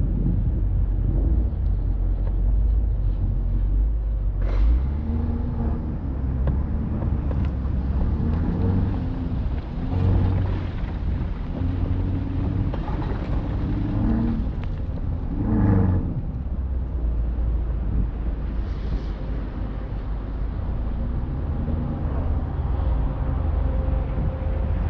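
Alpina XB7's twin-turbo V8 driving over a steady low rumble of road noise, its engine note rising and falling several times as it speeds up and eases off.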